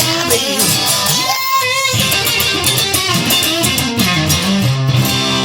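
Electric guitar music between sung lines: a busy lead line with bent notes, settling into a held chord near the end.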